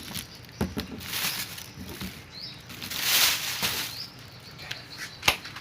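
Rustling and handling noises with a few clicks and one sharp click near the end, and faint short bird chirps in the background.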